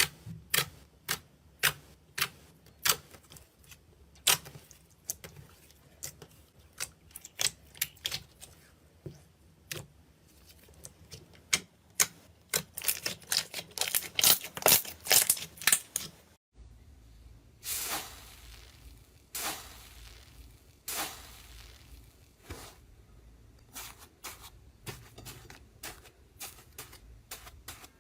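Close-up crunchy handling sounds: irregular, crisp clicks and crackles that grow denser and louder toward the middle. About halfway through they stop abruptly and give way to softer crinkling strokes over a low rumble.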